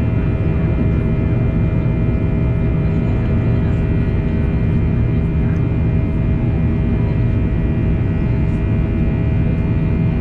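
Boeing 737-800's CFM56-7B jet engines and airflow running steadily, heard from inside the passenger cabin: a constant loud low rumble with steady whining tones over it.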